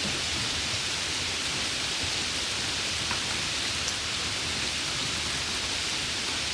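Steady rain falling, an even hiss with faint individual drop ticks here and there.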